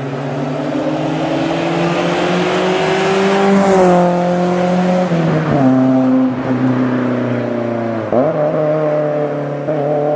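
BMW E30 M3's S14 four-cylinder engine revved hard, its pitch climbing for nearly four seconds, then falling in steps, with a sharp dip and recovery about eight seconds in.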